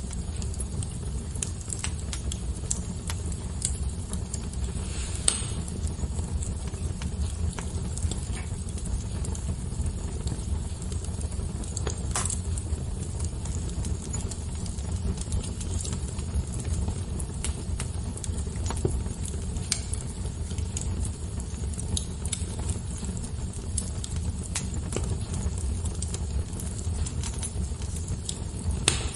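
Fire crackling: a steady low rumble under many small snaps, with a couple of louder pops about five and twelve seconds in.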